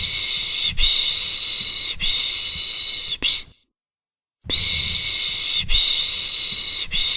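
A person shushing "shhh, shhh" (Turkish "piş piş") to soothe a baby: a run of long hushes, each about a second, a pause of about a second near the middle, then the run of hushes starts again.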